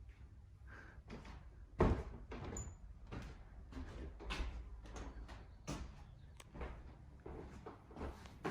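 Irregular footsteps and knocks from someone walking through an old building, with one heavier thump about two seconds in.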